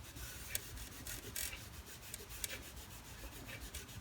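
Polish being rubbed onto the painted steel of an old Craftsman toolbox: a faint scrubbing hiss of irregular short strokes as grime and grease are worked off the surface.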